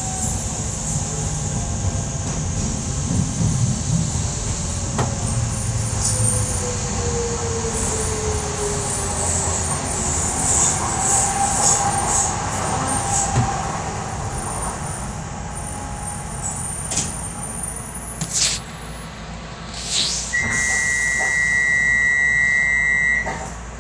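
Docklands Light Railway train heard from inside, running and slowing into a station: rumble with an electric motor whine that falls slowly in pitch as it brakes. Near the end, with the train stopped, there are clicks and a short hiss of air, then a steady high electronic beep lasting about three seconds.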